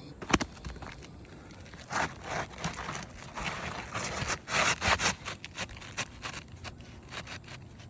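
A CertainTeed XT25 asphalt shingle scraping against the surrounding shingles as it is pushed and worked into place, in a series of rough scraping strokes, with a sharp knock just after the start.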